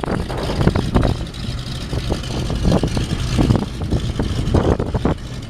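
Cessna float plane's propeller engine running at low power as it taxis away from the dock, a steady low drone, with wind gusting on the microphone.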